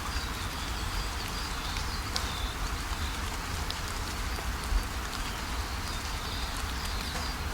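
Steady rain falling, with scattered drip clicks and one louder tap about two-thirds through. A bird calls in strings of short high notes over the rain, in two spells, one near the start and one in the second half.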